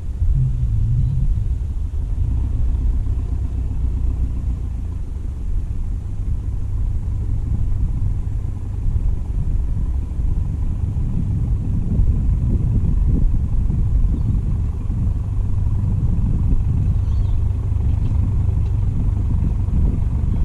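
Steady low rumble of a small fishing boat under way, its motor running with a buffeting, uneven texture throughout.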